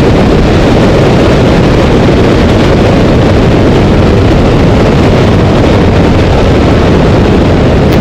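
Steady rush of wind on the onboard camera microphone with no engine note: the Ducati 1198's engine has stopped after a failure and the motorcycle is rolling on.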